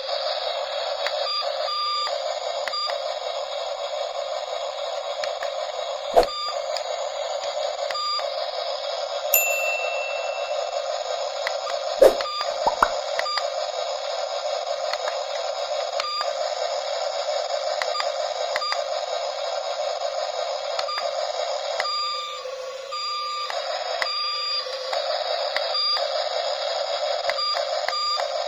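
Radio-controlled toy excavator truck running, with a tinny, looping electronic engine-like sound that breaks briefly about every second and a half. A few sharp knocks, loudest about 6 and 12 seconds in.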